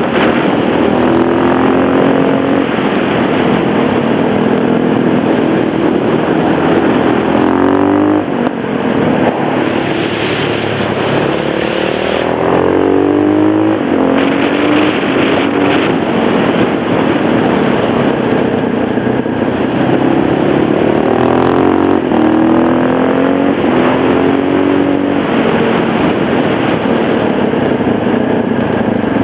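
KTM LC4 supermoto's single-cylinder four-stroke engine revving up and down through the gears on a winding road, its pitch climbing hard several times as it accelerates, over a steady rush of wind and road noise.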